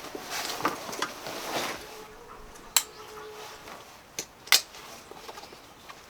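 Rustling handling noise, then a few sharp clicks or knocks, one about three seconds in and two close together near four and a half seconds.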